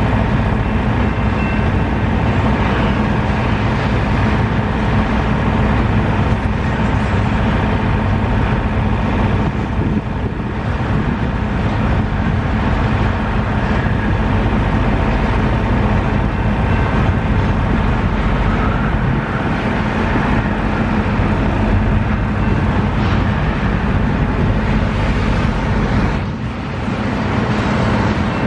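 Canadian National double-stack intermodal train passing at close range: a steady rumble of the well cars' steel wheels rolling on the rails. The loudness dips briefly near the end.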